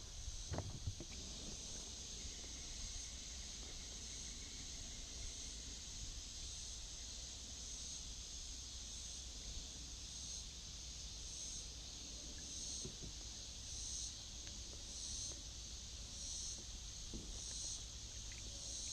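Outdoor insect chorus: a steady, high-pitched buzz that begins pulsing about once a second partway through, over a low rumble of wind on the microphone.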